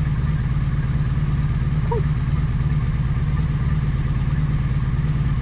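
Honda motorcycle engine idling steadily with a low, even hum.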